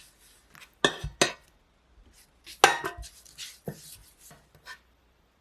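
Halved beets being rolled and handled in a prep tray, giving a few scattered knocks and clatters against the tray.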